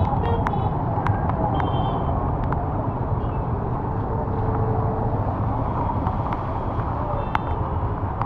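Steady rumble of road and wind noise while riding in rain, with scattered sharp ticks and two brief high tones, about two seconds and seven seconds in.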